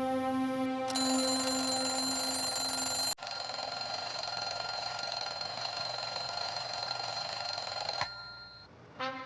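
Steady electronic tones held at an unchanging pitch over a hiss. They cut off abruptly about three seconds in and change again near the end, where they fade to a near-quiet gap.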